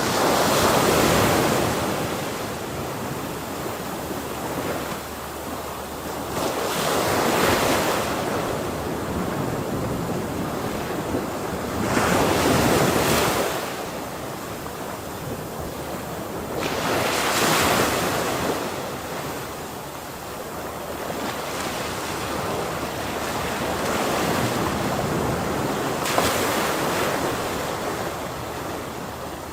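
Ocean waves crashing on the shore: about five breakers, one every five seconds or so, each a rising and fading rush over a constant hiss of surf.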